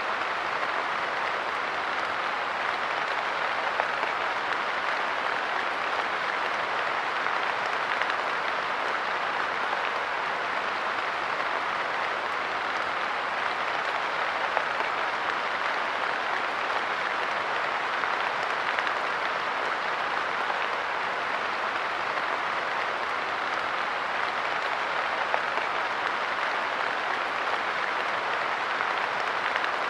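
Steady light rain falling on a park bench, an even hiss of drops with now and then a single louder drop.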